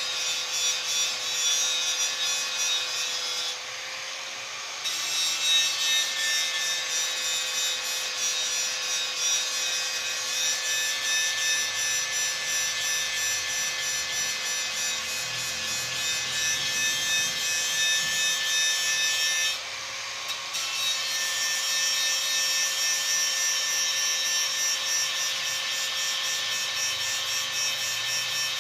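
Continuous rapid back-and-forth abrasive scraping on a fuel tank during its repair, stopping briefly twice, with a steady faint hum underneath.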